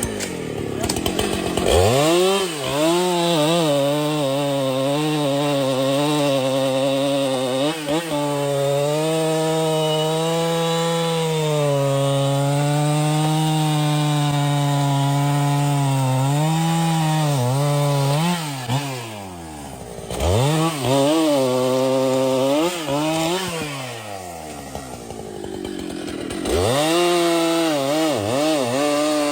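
Chainsaw cutting through wood, the engine revving up about two seconds in and held at high revs with small dips under load. The revs fall away briefly about two-thirds of the way through, then climb again near the end.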